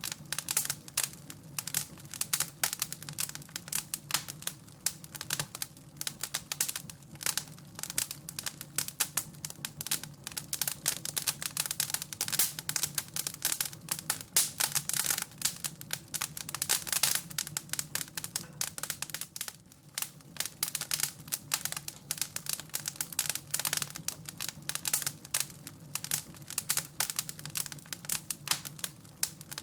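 Wood fire crackling in a fireplace: dense, irregular pops and snaps over a low steady hum.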